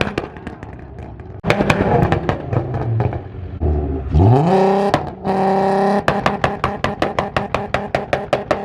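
Car engines revving hard: about four seconds in, one engine climbs quickly in revs and holds them high for about two seconds, with rapid rhythmic crackling and popping around it.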